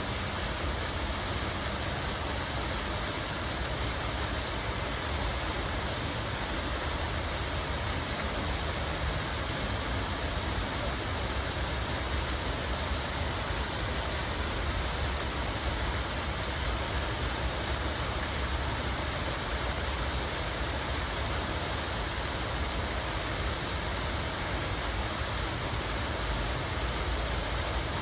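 Steady rush of running water in a park, even and unbroken, over a low steady rumble.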